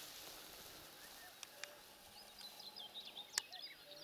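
Faint small-bird chirping and twittering in the second half, over a quiet outdoor background, with one sharp click about three and a half seconds in.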